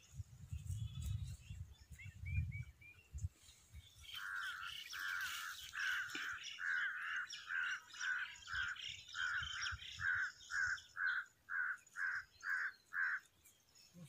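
A bird calling a long run of about fifteen short repeated notes, the notes coming shorter and quicker toward the end. A low rumble comes before it, during the first three seconds.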